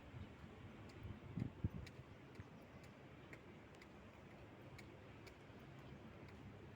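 Faint, regular ticking, about two ticks a second, over a low background hum, with two low thumps about a second and a half in.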